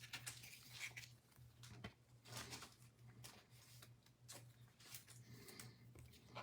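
Near silence: faint rustling and small clicks of trading cards being handled, over a low steady hum.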